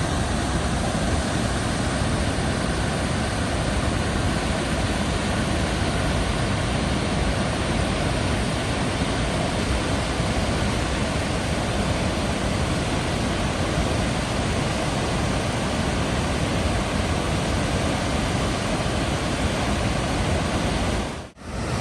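Waterfall's steady rush of falling water, even and unbroken, cutting out for a moment near the end.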